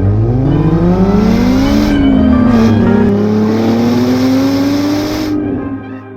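Vehicle engine accelerating hard, its pitch climbing and dropping back twice as if shifting up through the gears, then fading away near the end.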